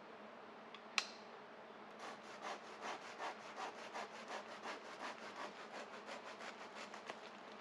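Hand saw cutting through a wooden branch in steady back-and-forth strokes, about three a second. A single sharp snap comes about a second in, before the sawing starts.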